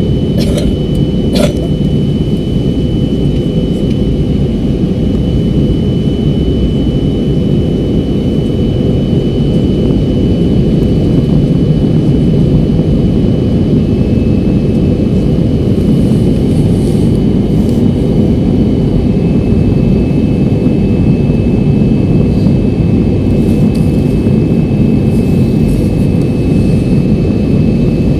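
Steady jet airliner cabin noise in flight, a dense low rush with a thin high whine held over it that steps slightly lower in pitch partway through. Two short clicks sound about a second in.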